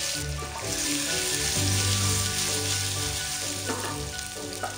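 Pieces of raw guava sizzling in hot oil with mustard seeds and garlic in a frying pan, stirred with a wooden spatula, with a couple of short scrapes near the end.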